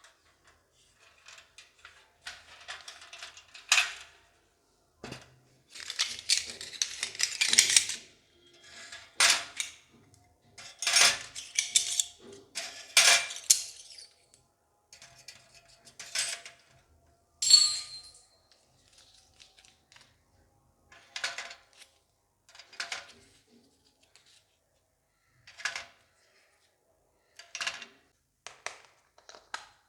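Small toy kitchen pieces being handled and set down, giving irregular light clicks and clatters, with a few seconds of packaging rustle and one brief ringing clink.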